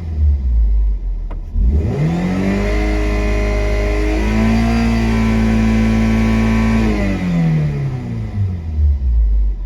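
Toyota 1ZZ-FE 1.8-litre four-cylinder engine revved: the pitch climbs over about two seconds, holds steady at high revs for a couple of seconds, then falls back toward idle.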